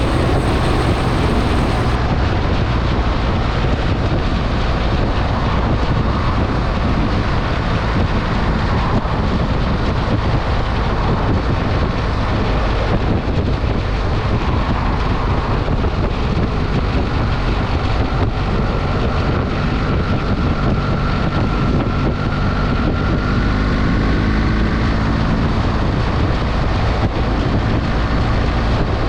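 Wind rushing over the microphone while riding a BMW R 1300 GS motorcycle, with its boxer-twin engine running underneath; the engine note climbs in pitch about two-thirds of the way through.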